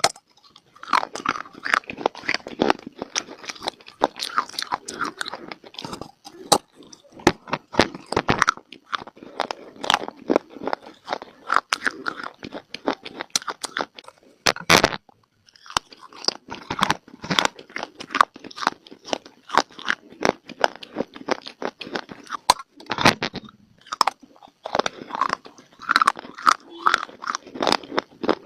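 Dry clay (mitti) being bitten and chewed close to the microphone: a rapid run of sharp crackly crunches, with a short pause about halfway through.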